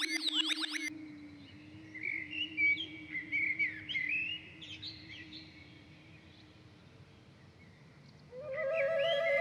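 Birds chirping in quick, high twittering calls, between passages of music: the music cuts off about a second in and a new pitched musical tone comes in near the end.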